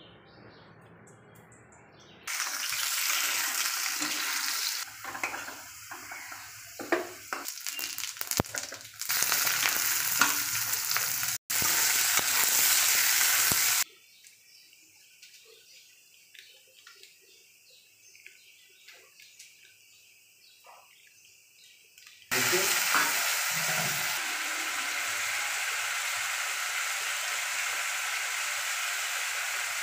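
Spice paste sizzling in hot oil in a wok, stirred with a steel ladle. The sizzle starts and stops abruptly several times, with quieter stretches of faint taps in between.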